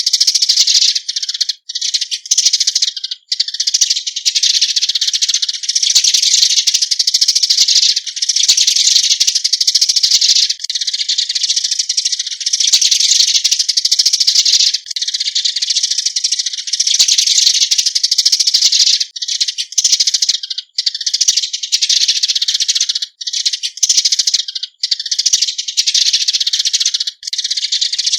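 Eurasian tree sparrows giving their flock-gathering calls: a dense, high-pitched chirping chatter with a few very brief breaks.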